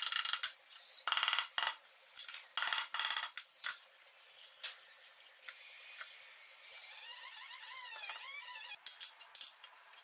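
Small steel parts clinking and knocking together, with sharp ringing hits in the first few seconds, then lighter clicks and a few short squeaks later on.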